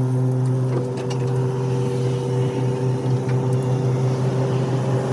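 An engine running steadily at a constant pitch, with a few faint clicks.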